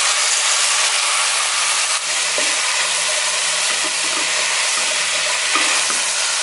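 Food sizzling steadily in a hot pot as the ingredients for a lamb ragu are browned.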